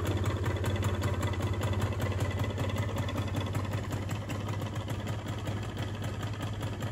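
2002 Piaggio Liberty 50's single-cylinder two-stroke engine idling steadily after its rebuild, with a fast, even firing beat; it eases off slightly about four seconds in.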